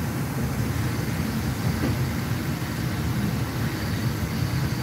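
Passenger train in motion, heard from inside the carriage: a steady low rumble.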